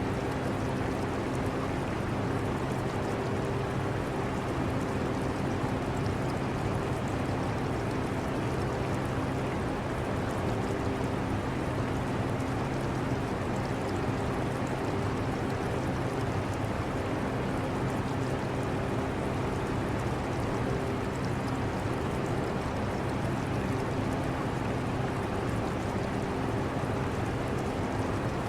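Portable air conditioner running steadily: a constant rush of air over a low motor hum, with trickling aquarium water mixed in.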